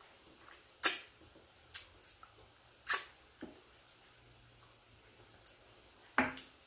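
Mouth noises of someone eating barbecue ribs: chewing with several short, sharp wet smacks of the lips, spaced irregularly about a second or more apart.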